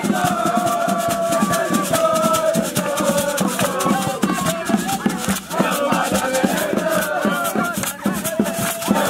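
Voices singing together over a fast, steady percussive rhythm, like a shaker rattle.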